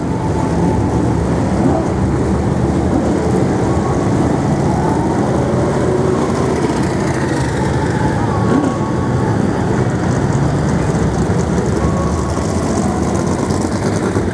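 A pack of Brisca F1 stock cars' V8 engines running together, a loud, steady, dense engine noise with faint rising and falling revs inside it.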